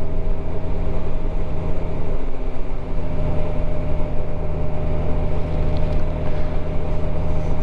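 Motorcycle engine running at a steady cruising speed: an even engine hum under steady road and wind noise while riding.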